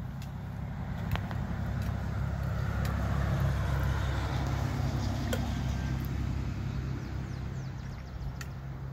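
A motor vehicle's engine running steadily with a low hum, its noise swelling a few seconds in and easing off near the end; a few faint ticks are heard over it.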